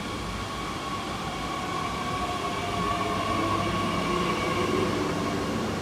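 Train moving past, growing louder over the first five seconds, with a whine of several steady pitches over a low rumble.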